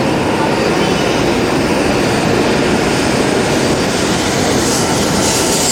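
E7 series Shinkansen train running out of the station, a loud, steady rushing noise of wheels and motors on the track.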